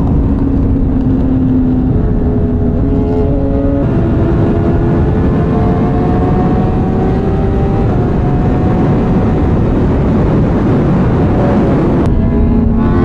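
Sportbike engine running while riding. Its pitch holds, then steps to a new level several times, and near the end it rises and falls quickly. A loud rushing noise runs underneath throughout.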